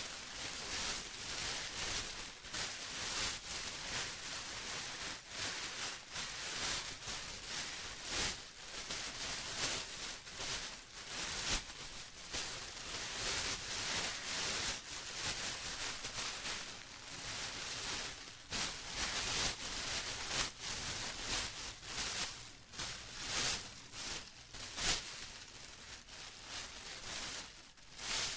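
Plastic being rustled and crinkled by hand, a continuous irregular crackle with frequent sharper crinkles, bright and high-pitched.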